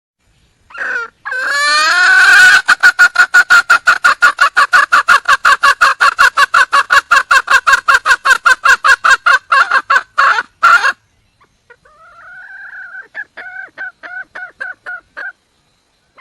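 Red junglefowl hen giving her mating call: a short opening note, then a long, rapid run of clucking notes about five a second for some eight seconds, followed by a shorter, quieter run near the end.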